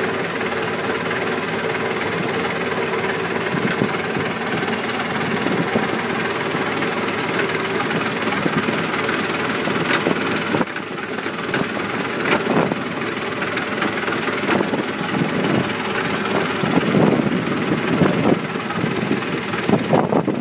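John Deere 2555 tractor's four-cylinder diesel engine running at idle just after a cold start. In the second half, sharp clicks and knocks sound over the engine.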